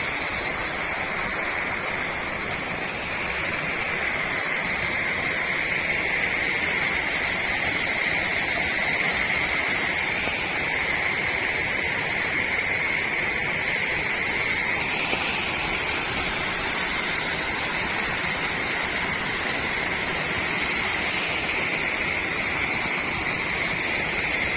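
Waterfall pouring and splashing: a steady, even rush of water with a constant high hiss.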